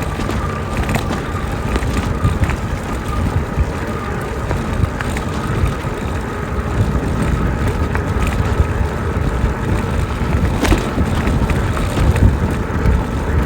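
E-bike riding along a trail: wind rushing over the microphone and tyres rolling, with a faint steady whine from the hub motor. A single sharp click comes about two-thirds of the way through.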